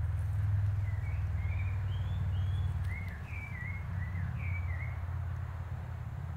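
A songbird singing a run of short, quick chirping notes over a steady low rumble.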